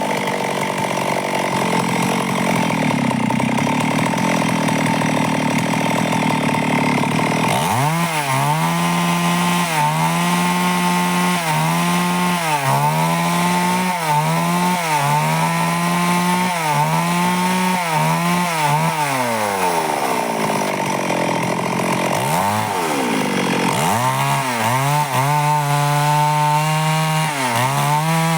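Stihl chainsaw running at high revs while ripping along a log into boards. Its engine pitch sags and recovers every second or so as the chain loads up in the wood. In the last third the pitch falls away and then climbs back up.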